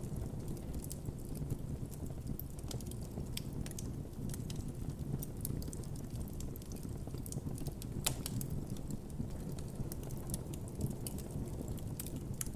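Campfire crackling, with irregular sharp pops over a steady low rumble; one louder pop about eight seconds in.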